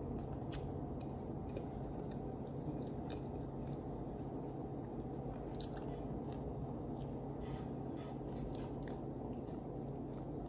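A person chewing and biting a piece of bread close to the microphone, with scattered small mouth clicks over a steady low hum.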